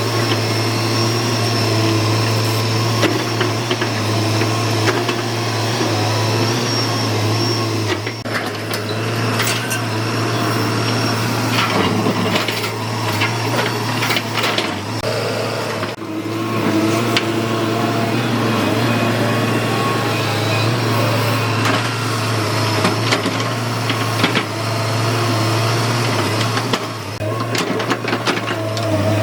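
Hyundai 210W wheeled excavator's diesel engine running steadily under work, with scattered knocks and clatter over it.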